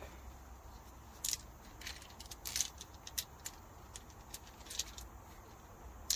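Metal rocker arms from a BMW M57 diesel cylinder head clinking and tapping together as they are picked up and checked for damage: several short, irregular clicks, the sharpest near the end.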